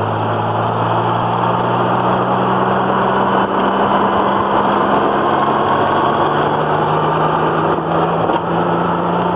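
Twin-turbo Datsun Z car on the move, heard from inside the cabin: a steady engine drone under road and wind rush. The engine note changes about three and a half seconds in.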